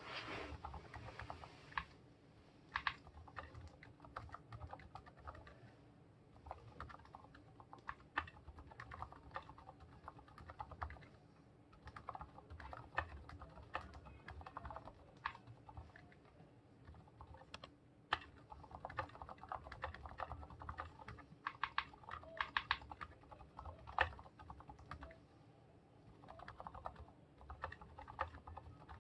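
Typing on a Monstargear Ninja 87 aluminium mechanical keyboard with fully lubed Gateron silent yellow linear switches. The keystrokes are quiet, coming in quick runs broken by short pauses.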